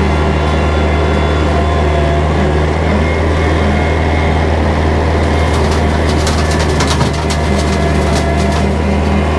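Kubota tractor engine running steadily under load while bush hogging with a rotary cutter. In the second half comes a run of sharp cracks and snaps of brush being cut.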